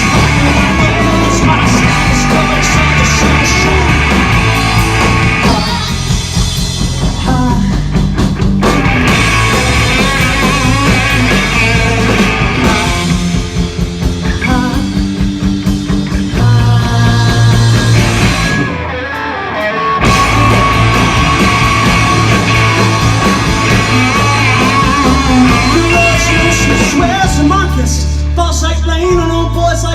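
Loud live punk rock band playing with electric guitars and drums, the full band dropping out briefly a little past the middle and then crashing back in.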